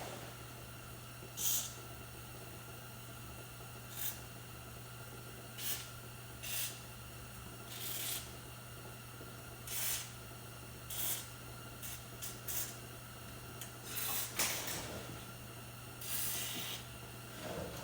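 Aerosol penetrating oil sprayed onto seized, rusty bolts in a dozen or so short hissing squirts, one every second or two.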